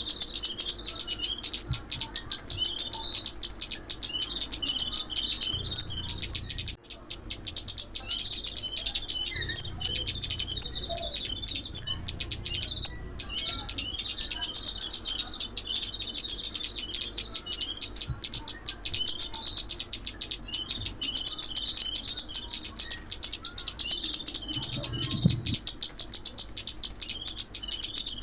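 Crimson sunbird song played as a trapping lure: rapid, high, twittering phrases repeated almost without break, pausing briefly about seven and thirteen seconds in.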